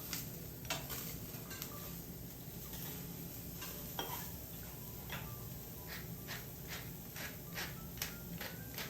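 Metal utensils clinking against dishes and the grill, about sixteen light clinks with a brief ring, coming faster in the second half, over a steady low hum.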